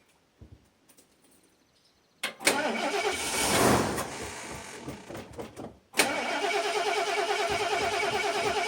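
Ford motorhome engine being cranked over by its starter after two years sitting, in two tries: one starting about two seconds in that swells and then fades out, and a steady, evenly pulsing one from about six seconds in. It turns over without running on its own, which the owner puts down to no fuel reaching it.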